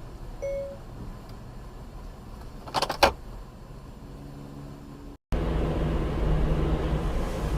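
Car driving noise as picked up by a dashcam, with a short beep about half a second in and a brief, loud cluster of sharp knocks near three seconds. The sound then cuts out for a moment and returns louder, with a steady engine drone over road noise.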